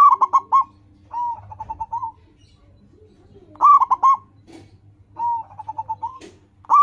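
Zebra dove (perkutut) cooing in repeated phrases. A loud phrase of four or five rapid coos alternates with a softer one that opens on a longer note and runs into a quick string of coos, the pattern coming round about every three and a half seconds.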